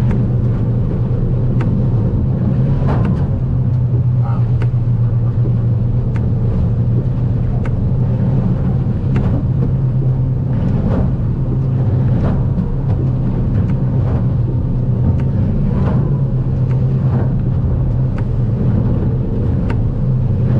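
Boat's outboard motor running steadily at cruising speed. Frequent short, sharp knocks and rattles come at irregular intervals as the aluminium boat bounces over rough swells.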